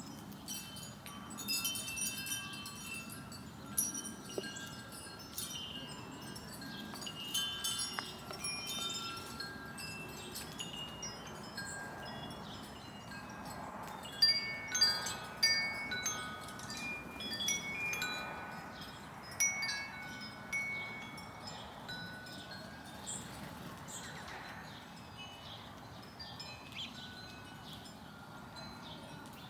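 Wind chime ringing: several steady tones at different fixed pitches, struck irregularly and overlapping as they ring on, loudest in the middle and thinning out near the end.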